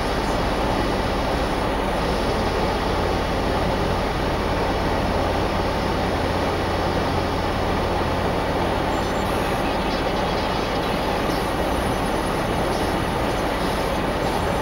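Jeep Wrangler JK Unlimited engine idling steadily, a constant low rumble heard from on top of the hood.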